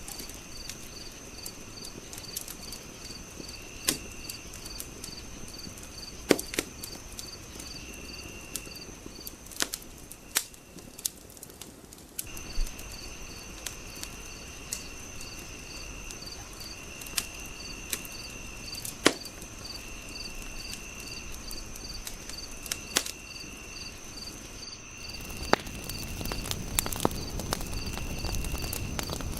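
Wood fire crackling with scattered sharp pops, over a night chorus of crickets chirping steadily at a high pitch in a regular pulse with repeating trills. The crickets fall silent briefly about a third of the way in, and a low rush of the fire grows louder near the end.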